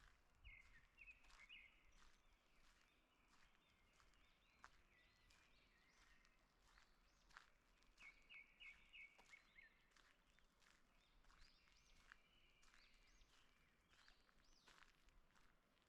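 Faint birdsong: a short chirping phrase sung about half a second in and repeated around eight seconds in, with other scattered bird notes. Footsteps crunch and tick on the forest floor throughout.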